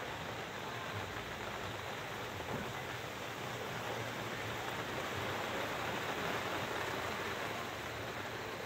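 Rain falling steadily, an even hiss that grows a little louder around the middle.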